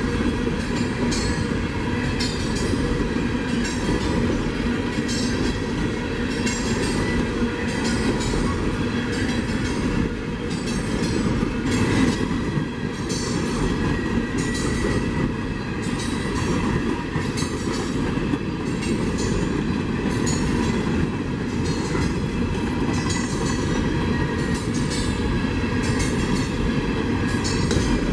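A train's cars rolling past at steady speed, the wheels clicking over the rail joints over a continuous rumble.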